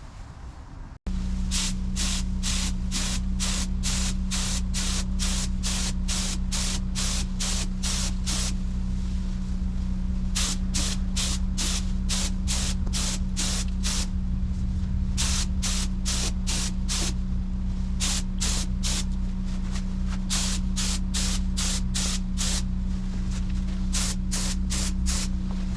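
Paint spray gun laying base coat in many short trigger pulls: bursts of hissing spray, roughly one to two a second with a few brief pauses, over a steady low hum.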